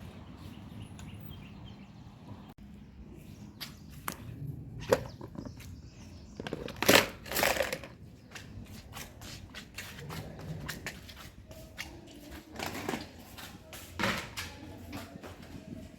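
Household handling noises: a string of clicks, knocks and light clatter as objects are picked up and set down, with a few short, louder rustling or scraping bursts about seven seconds in and again near the end.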